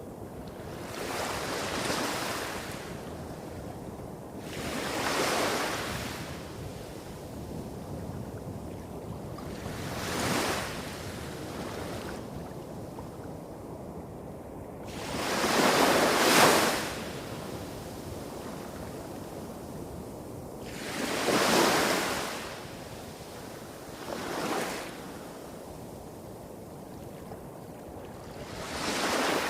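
Small waves breaking and washing up a shore, one swell every four to six seconds, the biggest about sixteen seconds in. Beneath them runs a steady low rumble of bigger waves hitting rocks farther off.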